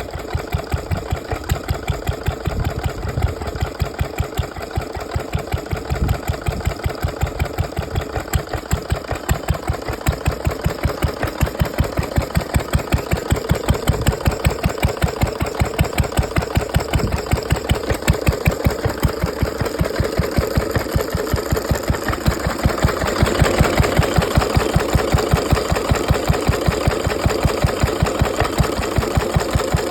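1936 Bamford EV1 single-cylinder stationary engine running at a steady, even beat of about three firing strokes a second, growing somewhat louder in the second half.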